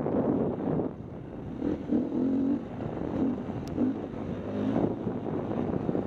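KTM 250 EXC-F four-stroke single-cylinder dirt bike engine running on and off the throttle, its pitch rising and falling, with heavy wind noise on the microphone.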